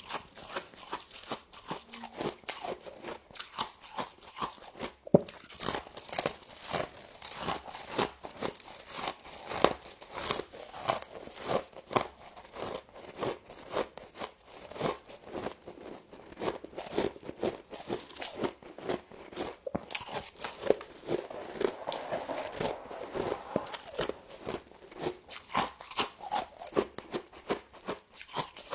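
Frost being bitten and chewed: a steady run of crisp crunches, about two a second.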